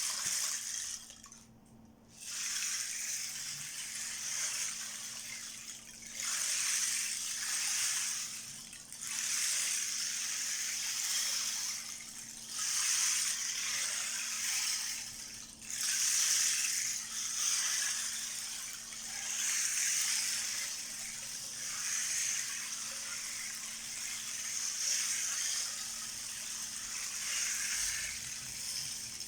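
12-inch rain disk giving a rushing, rain-like hiss of small beads rolling inside it, swelling and fading in waves about every three seconds after a brief lull near the start.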